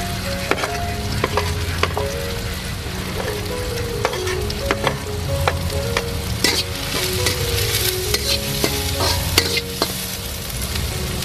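Diced onions and minced ginger sizzling in hot oil in a wok, with a spatula scraping and clicking against the pan as they are stirred. The sizzle grows brighter a little past the middle.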